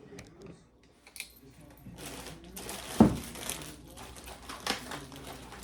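Kitchen handling noises: a rustle with a single sharp thump about three seconds in, then a few light clicks.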